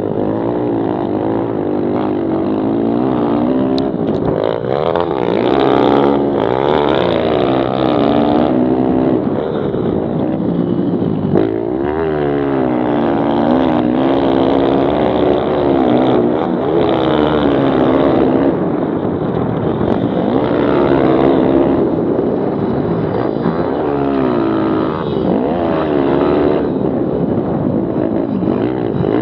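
Several pit bike engines racing together, their overlapping pitches rising and falling as the riders rev up, shift and roll off for turns.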